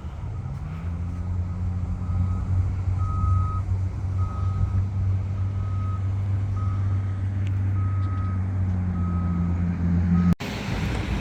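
Heavy construction vehicle backing up: its reversing alarm beeps about once a second over the steady drone of its engine, which rises in pitch about a second in. Both are broken off abruptly near the end.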